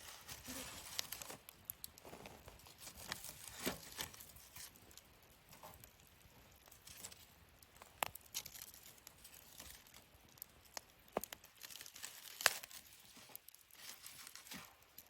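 Wood burning in a campfire stand, crackling softly with scattered sharp pops; the loudest pop comes about twelve seconds in.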